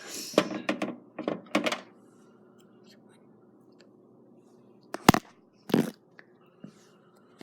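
Several short knocks and rustles, then a sharp click about five seconds in followed by a brief rustle, over a faint steady hum.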